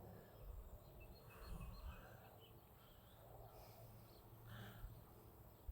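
Near silence: faint outdoor ambience with a few faint, short high chirps scattered through it.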